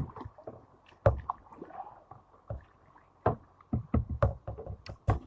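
Kayak being paddled: a series of irregular knocks and thumps of the paddle against the kayak hull, with water splashing.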